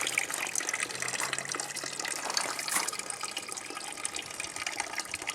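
Water running and splashing steadily in a homemade rocket-stove water heater setup, with a faint low hum that fades out about two seconds in.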